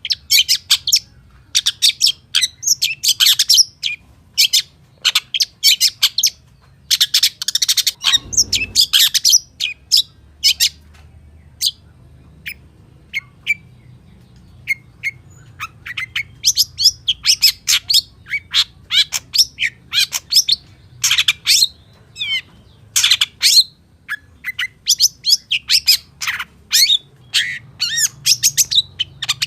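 Long-tailed shrike singing in rapid strings of sharp chirps and harsh squawking notes, mixed with mimicked phrases. The song thins to scattered single notes for several seconds in the middle, then picks up again.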